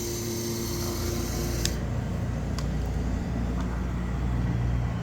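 Small AC electric water pump feeding the steam boiler, running with a steady hum and hiss, then switched off with a click a little under two seconds in. A low steady rumble carries on after it stops.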